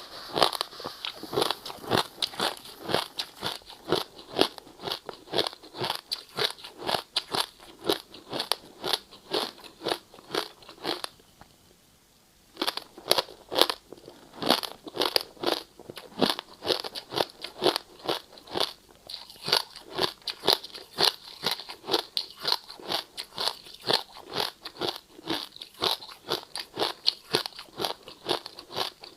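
A person biting and chewing ice cubes, with sharp crunches about twice a second and a short pause in the middle of the chewing.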